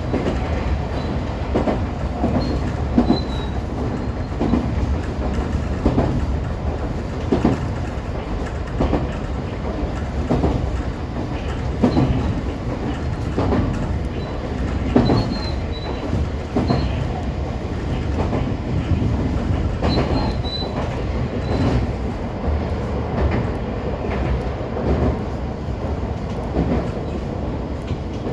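JR West 125-series electric railcar running along the line: a steady rumble with wheels clacking over rail joints about once a second or so, and a few faint, brief high squeaks from the wheels.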